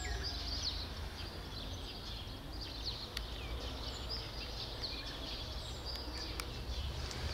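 Small birds chirping throughout, many short calls sliding up and down, over a steady low rumble of outdoor background noise.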